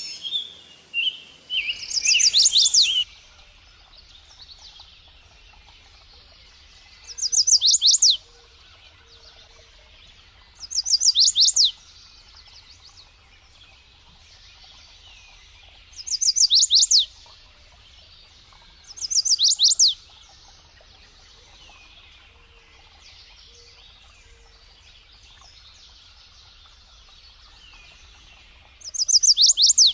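A small songbird sings the same short, high phrase about six times, several seconds apart. Each phrase is a quick run of falling notes lasting about a second, with fainter bird calls between.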